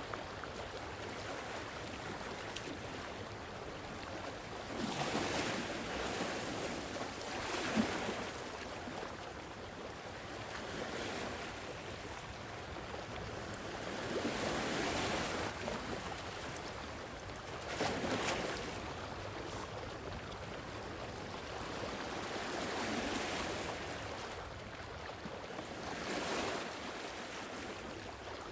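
Sea waves washing ashore in a steady hiss, swelling into a louder wash every few seconds.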